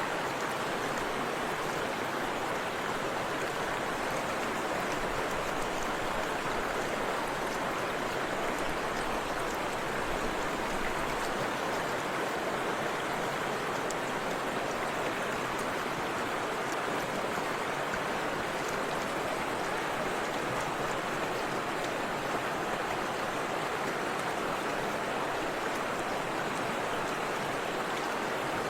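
Forest river with a small waterfall, water flowing and splashing in a steady, even rush.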